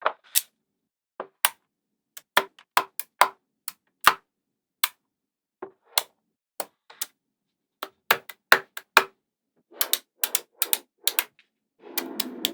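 Magnetic balls clicking together as they are snapped into place one by one, in sharp irregular clicks. A short scraping rattle comes near the end.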